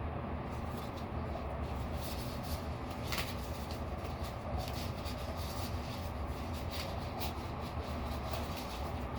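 A steady low rumble with scattered rustling and crackling clicks, like handling noise from something being worked by hand.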